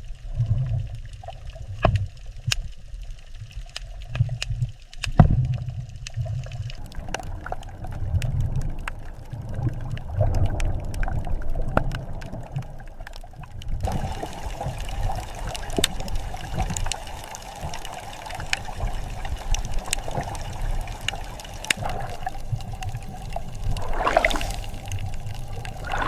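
Underwater ambience: a steady low water rumble with bubbling and many scattered sharp clicks. It grows fuller about a quarter of the way in and again about halfway through.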